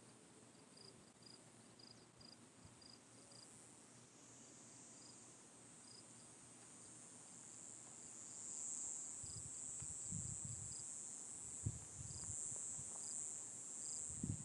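Crickets and other insects make a steady high-pitched drone that grows louder about eight seconds in, with short high chirps repeating about once a second. Faint low thumps come in over the last few seconds.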